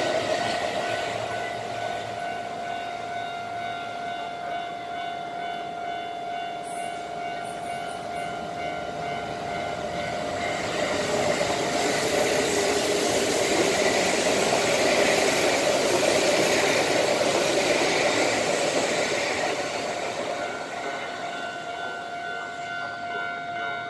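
Kintetsu electric trains running through a station without stopping: first the 80000-series Hinotori limited express, then a 2800-series and 5200-series deadhead train, whose rail and wheel noise rises to a loud pass about halfway through and then fades. A level crossing alarm rings steadily under the train noise for the first half and again near the end.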